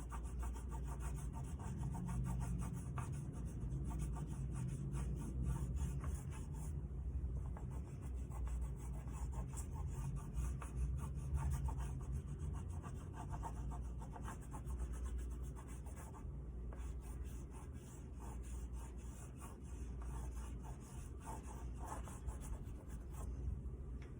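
Oil pastel stroked back and forth on paper: a steady run of short rubbing strokes over a low, steady hum.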